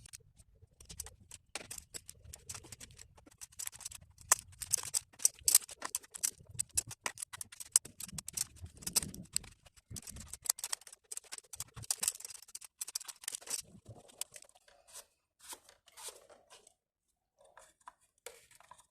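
Irregular clicking and scraping of an oil filter wrench being fitted and turned on the oil filter housing cap of a Mercedes M111 engine, the tool knocking against a nearby bolt in the tight space.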